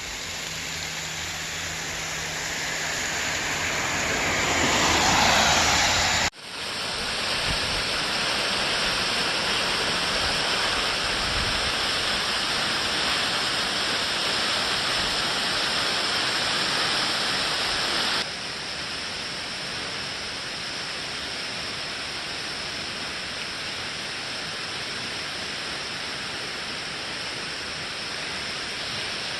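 Steady rush of falling water from a waterfall. It grows louder over the first few seconds and changes abruptly about six seconds in and again near eighteen seconds.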